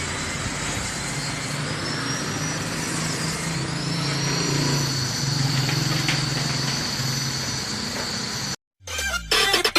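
Steady machine running noise with a low hum, cutting off abruptly about a second before the end, where music begins.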